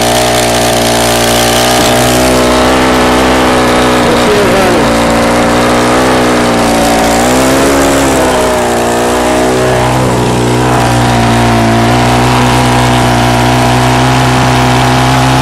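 Troy-Bilt four-cycle string trimmer engine running, its speed wavering briefly a couple of times.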